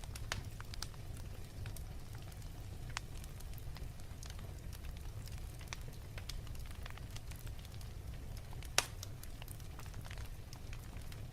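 Wood fire crackling in a fireplace: a steady low rumble of flames with irregular small snaps and one louder pop near the end.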